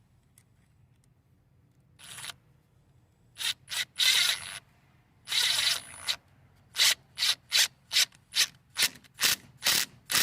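Short rasping mechanical strokes, some irregular and two longer ones at first, then an even run of about two and a half strokes a second, like a ratcheting mechanism being worked.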